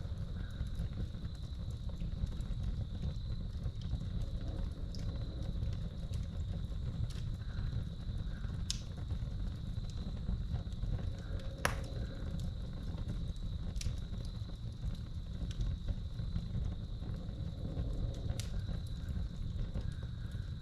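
Wood fire crackling in a fireplace, with a handful of sharp pops, the loudest a little over halfway through, over a steady low rumble. Crickets keep up a steady high trill in the background.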